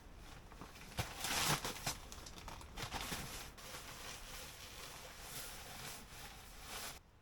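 Faint rustling and crinkling with a few soft knocks, strongest about a second in, cutting off abruptly near the end.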